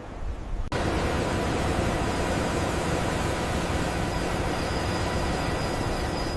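Steady heavy-machinery noise: a wide, even rushing hum with a few faint steady tones in it. It cuts in abruptly less than a second in.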